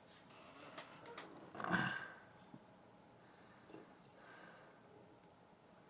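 A short, sharp breath through the nose, with a few faint clicks of handling just before it.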